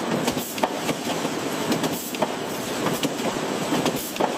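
Factory machinery running with a steady mechanical clatter: a dense rattle broken by sharp clicks several times a second.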